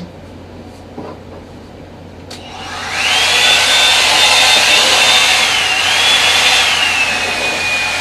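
Revlon One-Step hair dryer brush switched on: its motor spins up with a rising whine about two seconds in and runs with a loud rush of air, the whine dipping briefly and sinking lower near the end.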